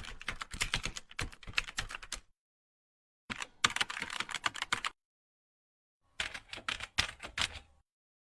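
Computer keyboard typing in three bursts of rapid, irregular keystrokes, with short silent pauses between the bursts.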